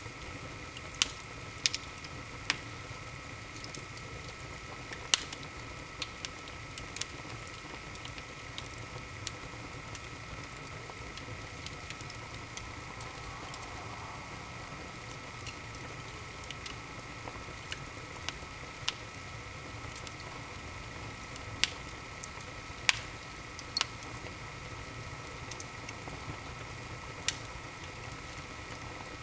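Wood fire burning in an open fireplace: a steady soft hiss with irregular sharp crackles and pops every second or few.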